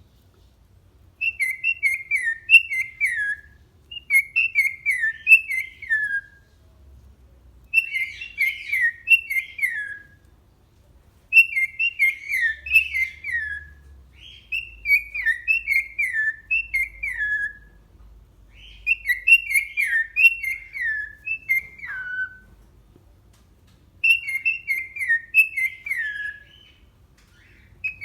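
Cockatiel whistling its song: about seven short warbling phrases of quick notes, each dropping in pitch toward its end, repeated with brief pauses between them.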